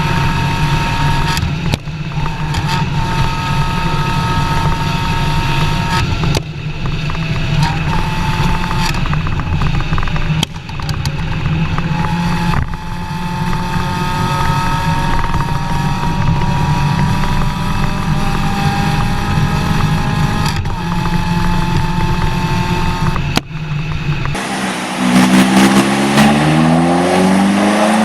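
Fiat Panda 100HP's 1.4-litre naturally aspirated four-cylinder engine and exhaust running under load, broken by a few short drops. Its pitch climbs slowly through the middle, and near the end it revs up with a clearly rising note.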